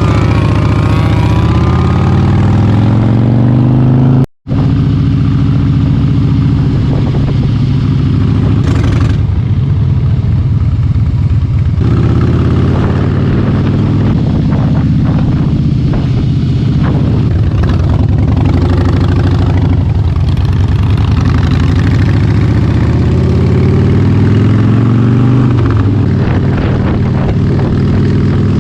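Harley-Davidson V-twin motorcycle engine running on the road, its pitch rising and falling with the throttle, with a brief break in the sound about four seconds in.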